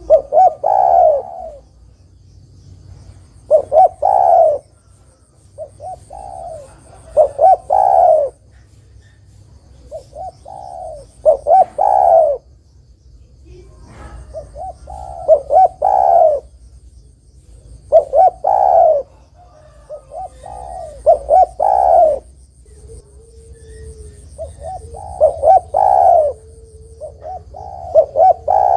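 Spotted dove (tekukur) singing: a run of repeated cooing phrases, one every few seconds, each a short rhythmic string of deep coos.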